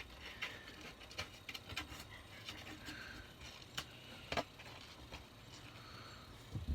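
Faint scattered scratching and light clicks of a toothbrush being drawn through a small kitten's fur, with a few sharper ticks.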